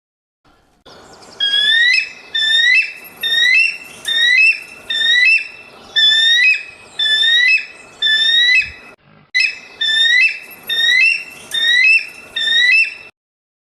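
A bird calling: a repeated rising whistled note, about one a second, with a short break partway through.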